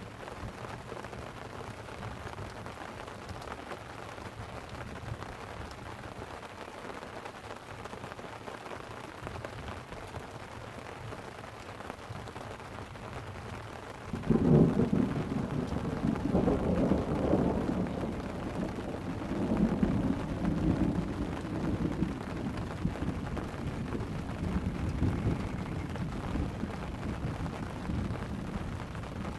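Light rain falling steadily on a tent, then about halfway through a sudden clap of thunder that rolls on in several deep swells.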